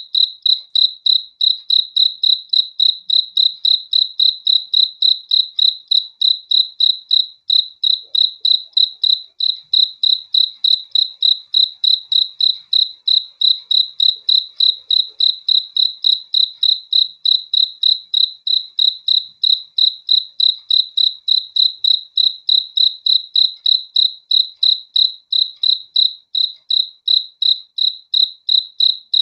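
A cricket chirping steadily in an even rhythm of about three high-pitched chirps a second, all at one pitch.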